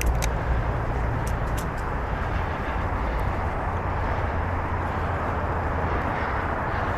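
Wind rushing over the microphone with the rolling noise of a bicycle on a trail: a steady low rumble, with a couple of sharp ticks at the start.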